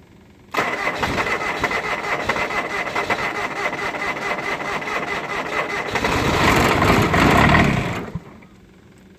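Electric starter cranking a cold Ford LGT 14D diesel garden tractor engine for about seven and a half seconds with a fast, even chugging and a thin steady whine, growing louder over the last two seconds before it stops abruptly.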